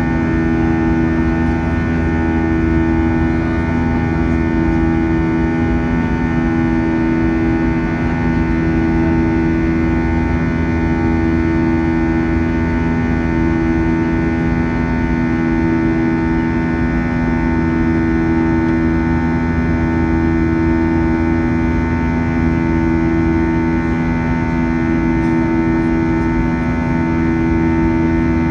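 Airbus A321 jet engines running steadily, a loud drone with strong low humming tones that swell and fade every few seconds.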